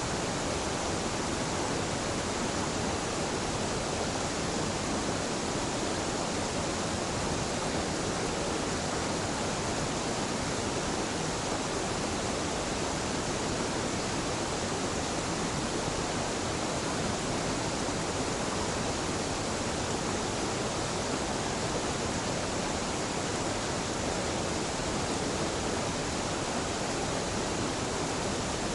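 A small, gentle mountain waterfall: water falling and rushing in a steady, even wash with no changes.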